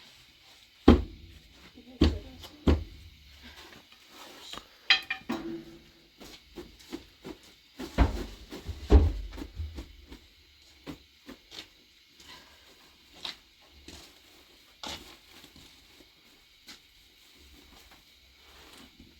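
Knocks and clatter of pots, dishes and utensils being handled. There are a few heavy thumps about a second in, around two seconds and around eight to nine seconds, with lighter clicks and taps in between.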